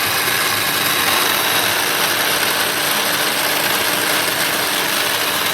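Black+Decker HC300BC 3-cup food processor running continuously, its blade spinning through a banana milkshake: a steady motor whir with a constant hum.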